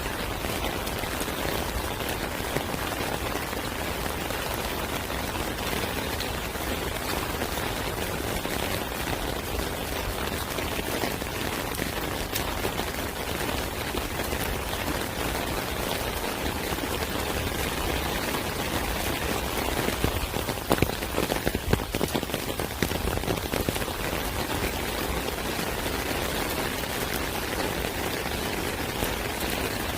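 Steady rain falling, a dense even patter of drops. About two-thirds of the way through, a short run of sharper ticks stands out over the rain.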